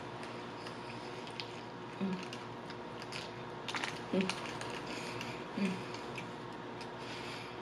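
Close-miked chewing of a burger: wet mouth clicks and smacks scattered throughout, with a few short, low throat sounds.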